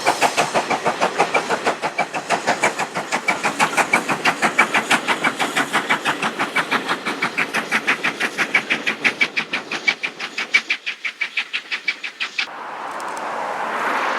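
A train passing at speed with a fast, even beat of about five strokes a second, which cuts off about twelve and a half seconds in and gives way to a rising hiss.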